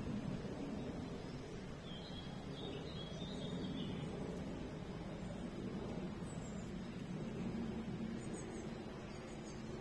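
Faint birds chirping a few times over a steady low background rumble.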